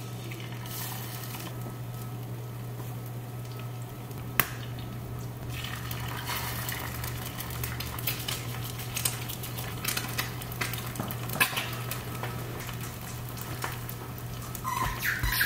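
Eggs frying in a pan on the stove, a light crackling sizzle that grows busier after the first few seconds. There are scattered clinks of kitchen utensils and one sharp knock about four seconds in.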